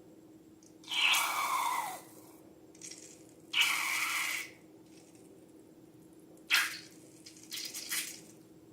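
Wet pouring and squelching sounds from slime ingredients being handled, in several short separate bursts about a second long. The later ones start more suddenly.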